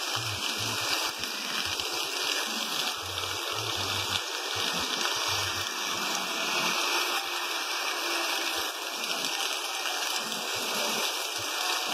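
Heavy rain pouring down on a street, a steady hiss of falling water and runoff.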